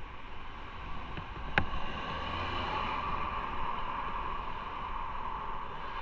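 Motorcycle running with steady engine and wind noise, with a single sharp click about one and a half seconds in.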